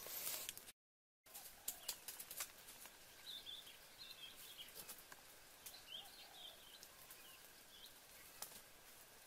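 Faint outdoor ambience with small birds chirping in two short clusters and scattered light clicks, broken by a brief dropout to silence about a second in.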